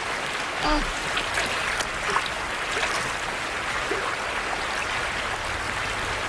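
Shallow river water rushing steadily over rocks, with a brief animal call less than a second in.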